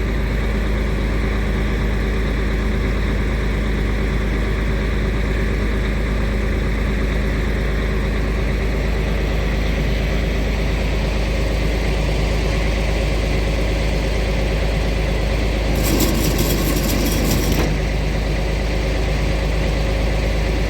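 Heavy truck diesel engine idling steadily. Near the end a noisy burst cuts in for about a second and a half.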